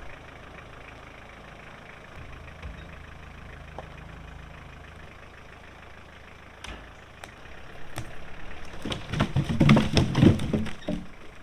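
Pickup truck engine running low and steady while it tows a heavy log off the log pile; about nine seconds in, the log comes down with a loud rumble of wooden knocks and clatter.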